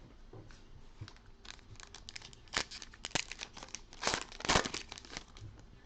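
Foil wrapper of a trading card pack crinkling and tearing as the pack is opened: a run of sharp crackles, loudest about four seconds in.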